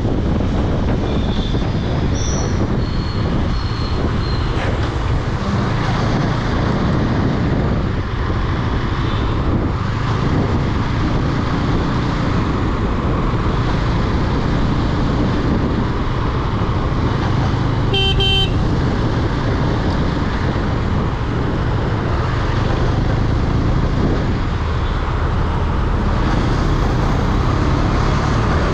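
Motorcycle ride through city traffic, likely a KTM Duke 250: steady engine and wind rumble on the microphone, with other vehicles' horns honking, one short horn blast standing out about two-thirds of the way through.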